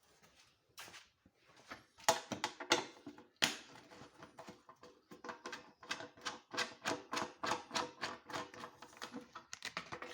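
A quick series of sharp metallic clicks and taps, about two or three a second, from hand tools working on metal motorcycle parts.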